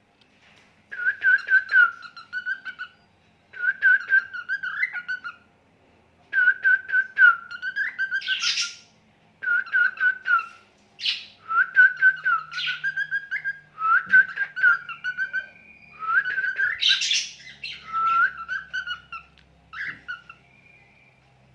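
Birds singing in repeated short chirping phrases with brief pauses between them, with a few harsher, noisier calls mixed in.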